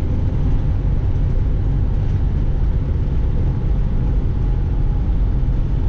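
Semi-truck's diesel engine and road noise heard from inside the cab, a steady low rumble at highway speed.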